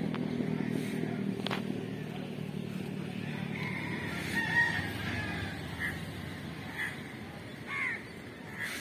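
Birds calling: one longer call, then a few short ones in the second half, over a low background rumble.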